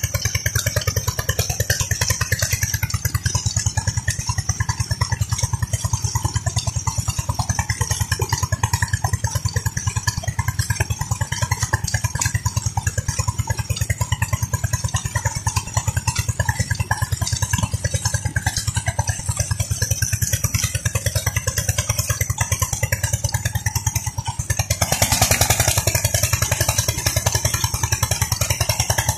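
Petter diesel engine of a tube well running steadily, an even, rapid beat of firing strokes. About 25 seconds in, a louder rushing noise joins it.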